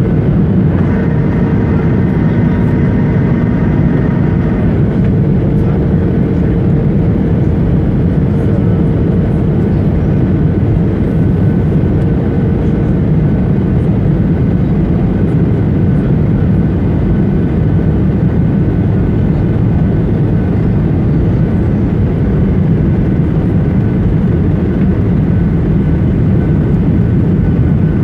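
Cabin noise of a Boeing 737-800 in flight: a loud, steady rush of engine and airflow noise, with a faint whine that fades out about halfway through.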